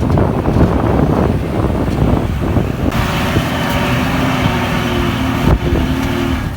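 Heavy diesel earthmoving machinery working close by: a loud rumble with clatter that changes about three seconds in to a hissier sound with a steady whine.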